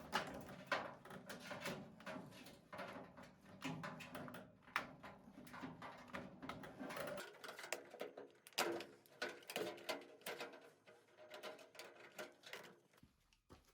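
Irregular clicks, knocks and light rattles of tools and parts being handled while a washing machine is taken apart.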